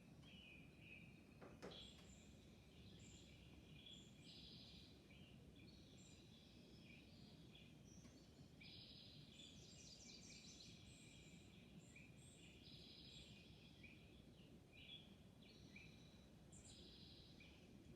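Small birds chirping, a busy run of short, high calls that keeps going over a faint low background hum. A single faint knock comes about two seconds in.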